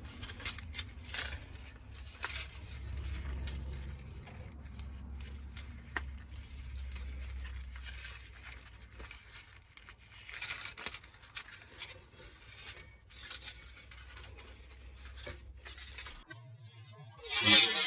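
Hands working the lawnmower's recoil starter spring into its plastic housing: scattered light clicks, scrapes and rattles of metal and plastic parts, over a low hum. Harmonica music cuts in near the end.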